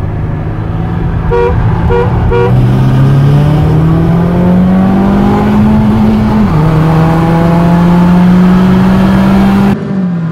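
A car horn gives three short toots about half a second apart, then a Lada Granta's 1.8 engine is heard from inside the cabin accelerating hard, its note rising steadily. It drops once at a gear change and climbs again.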